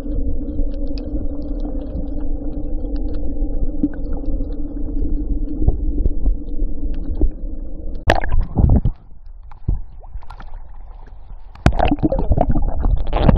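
A motor running with a steady drone and a low rumble. About eight seconds in it gives way to loud knocks and a quieter stretch, and louder noise returns near the end.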